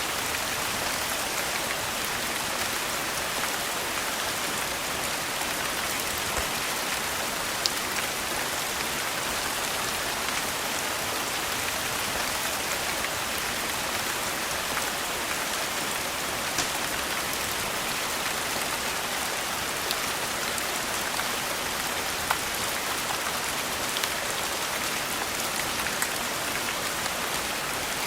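Steady rain falling, an even hiss of drops, with a few sharp clicks or pops now and then.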